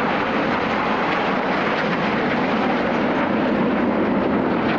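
Aircraft engine noise from an airplane at an airshow: a loud, steady rushing din.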